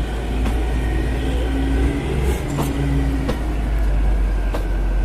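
Narrow-gauge passenger train rolling slowly over station pointwork: a steady low rumble of the running train, a few sharp clicks of the wheels over rail joints, and a low hum that comes and goes.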